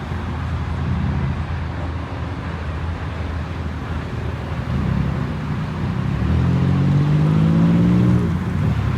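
Car engines running, then one car accelerating hard about six seconds in, its engine note climbing in pitch for about two seconds before it drops away.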